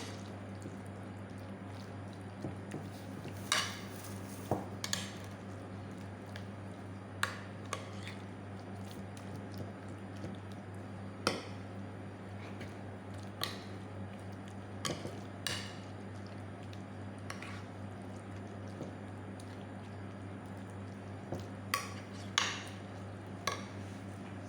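Irregular light clicks and clinks of kitchen utensils and dishes being handled, a few seconds apart, over a steady low hum.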